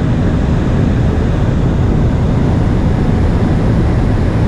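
Steady cockpit noise of an aircraft in flight: a constant low rumble of engines and rushing air with hiss above it.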